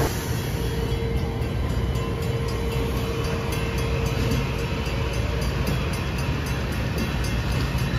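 A train running on the rails with a steady rumble. A faint steady tone fades out about halfway through.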